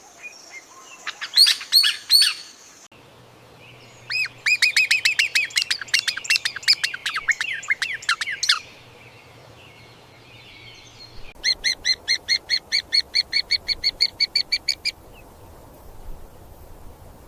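Songbirds calling in three separate passages: a few loud sharp calls, then a fast run of down-sweeping chirps lasting about four seconds, then an even series of repeated notes, about five a second.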